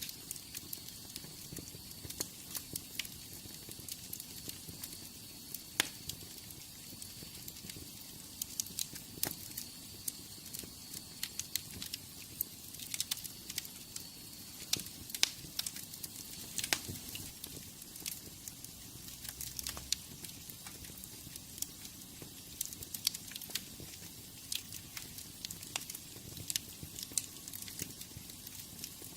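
Wood fire in a fireplace crackling: a steady soft hiss of flame with frequent irregular sharp pops and snaps, and a faint high whistle through roughly the first half.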